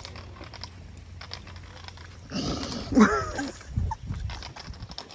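White cane tip tapping on a sidewalk in light, irregular ticks. About two and a half seconds in, a short wavering vocal cry.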